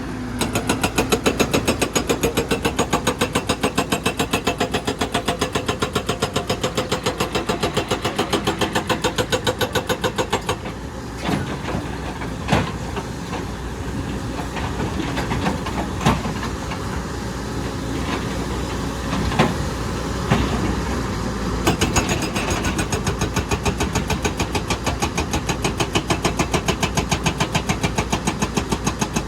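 An excavator's hydraulic breaker hammers rock in a fast, even stream of blows. It stops about a third of the way in, leaving the diesel engine running with a few separate clanks, and starts again about two-thirds of the way in.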